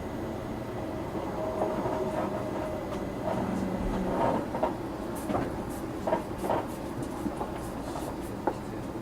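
700 series Shinkansen running, heard from inside the car: a steady rumble of wheels on rail with scattered sharp clicks and knocks, which grow busier about halfway through as the wheels cross rail joints and points.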